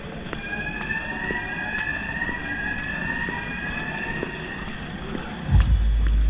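Racing motorcycle engine accelerating through the gears, its note climbing and dropping back at each shift several times. About five and a half seconds in, a loud low rumble starts up close.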